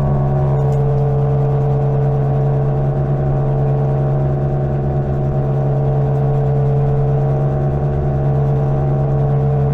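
Greenworks 60V electric mini bike cruising at a steady speed: an even motor and drivetrain whine, with wind rumbling on the microphone.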